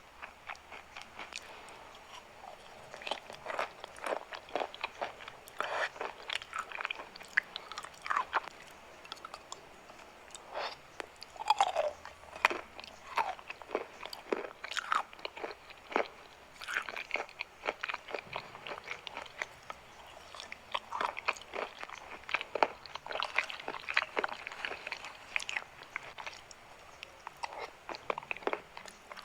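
Chalk being bitten and chewed close to the microphone: many irregular crunches and small crackling clicks.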